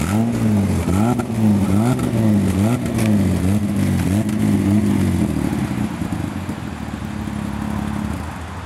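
Mazda 626 engine revved in about six quick throttle blips over the first five seconds, then settling into a steady idle, while running on a Seafoam cleaning treatment. An onlooker takes the exhaust note for an exhaust leak.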